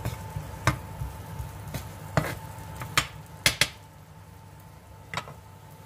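Chopped garlic and onion frying in a pan, sizzling softly as they are stirred, with several sharp knocks of the stirring utensil against the pan, the loudest a little past halfway.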